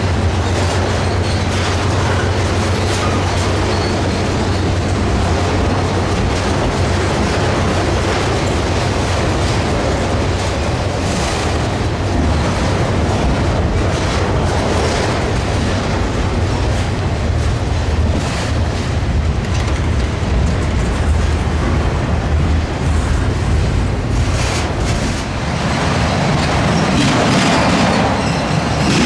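Freight train rolling past with a steady low rumble, its wheels clattering as they cross a railroad diamond, with sharp bangs every few seconds.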